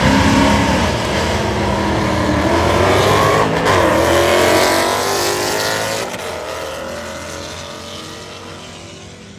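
A car engine revving hard as the car accelerates past, its pitch rising and falling through the gears, then fading steadily over the last few seconds as it pulls away.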